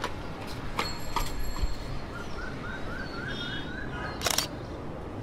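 Outdoor ambience with a bird chirping a quick run of short, rising notes, about four a second, lasting under two seconds. There are a few faint clicks, and a sharper one shortly before the end.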